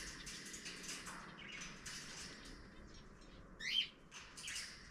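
Pet birds in a mixed aviary of parrots and finches chirping and calling, with one louder sweeping call near the end.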